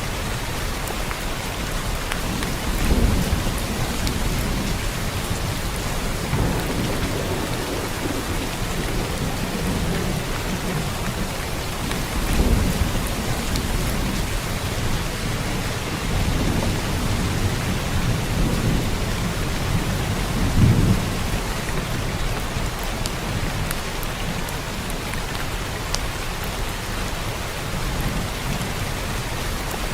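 Steady rain, an even hiss, with a few brief low rumbles through it, the strongest about two-thirds of the way through.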